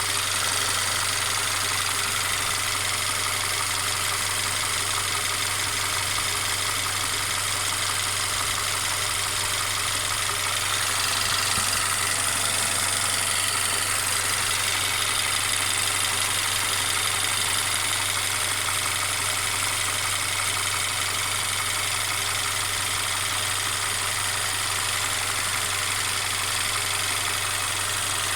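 Mercedes-Benz CLA 250's turbocharged four-cylinder petrol engine idling steadily, with the continuous rattling noise that the owner is trying to trace.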